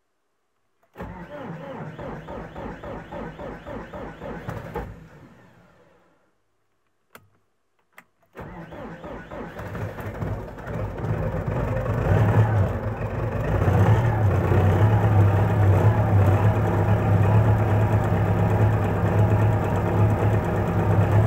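D-243 four-cylinder tractor diesel cranked on the starter for about four seconds without firing. After two short clicks it is cranked again and catches after a few seconds, building into a steady run. This is a trial start after an injection-pump repair with the injection timing set slightly later, and once running it sounds softer.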